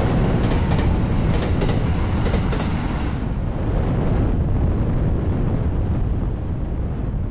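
Electric train running past on the rails: a heavy rumble with sharp clicks from the wheels crossing rail joints in the first three seconds, then a steadier rumble.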